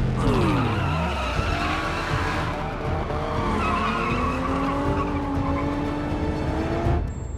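Cars racing with engines revving: pitch falling as they pass at first, then climbing steadily as they accelerate, over tyres squealing and skidding. The sound cuts off abruptly about seven seconds in.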